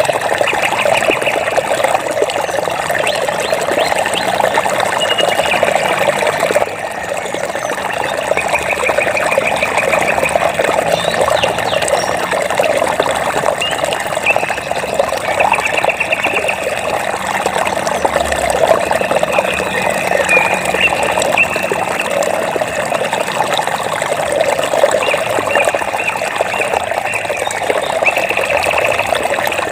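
Flowing water running steadily, trickling and splashing. Short, high, rapidly pulsing trills from calling animals recur every few seconds over it.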